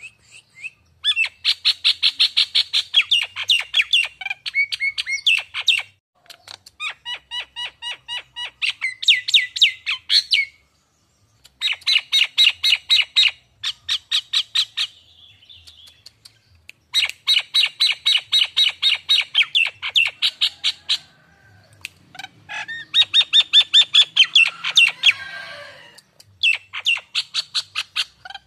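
Jalak Nias bird calling in loud, fast chattering phrases, about seven sharp notes a second. Each phrase lasts a few seconds, with short pauses between them.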